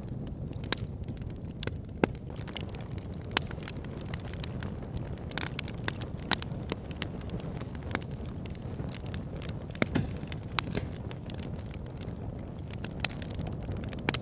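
Wood fire burning in a fireplace: a steady low rumble of flames with irregular crackles and sharp pops of burning wood, a few of them louder.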